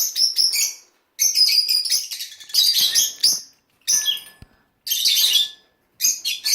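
Several small pet birds chirping and chattering in loud, rapid bursts, with short pauses between the bursts.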